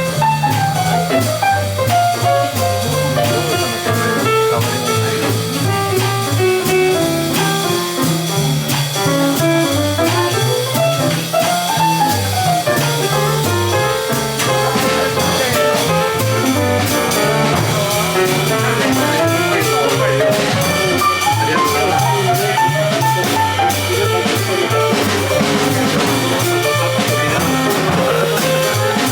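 Live jazz band playing: a lead melody line moving up and down over a bass line and a drum kit with cymbals.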